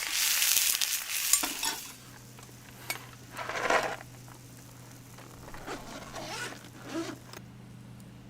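Meat sizzling loudly in a frying pan over a campfire, the sizzle cutting off about two seconds in. After that there are a few short scrapes and clinks of cookware over a steady low hum, the loudest about halfway through.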